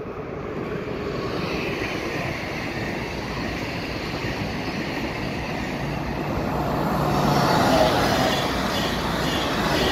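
Thalys high-speed train approaching and running past on the track beside the platform. The sound of the train grows steadily louder and is loudest about eight seconds in as the carriages go by, with faint regular wheel clicks near the end.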